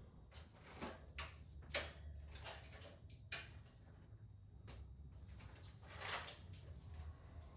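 Scattered light clicks and rustles of hands handling small objects, such as RC batteries and parts on a workbench, over a steady low hum.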